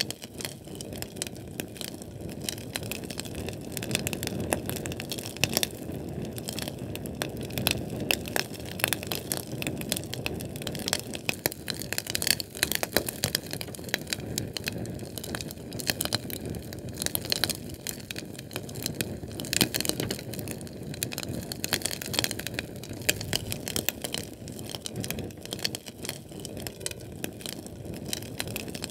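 Fire crackling steadily: many sharp pops and snaps at irregular intervals over a constant low rush of flame.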